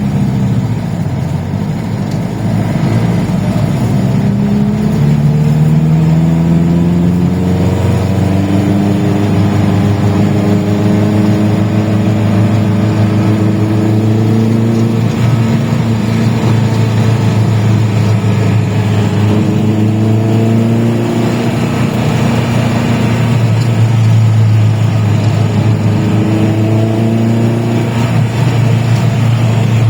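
Suzuki Jimny Katana exhaust through an HKS aftermarket muffler, a deep bassy engine note. The pitch climbs steadily under acceleration and drops back several times, like an engine pulling through its gears.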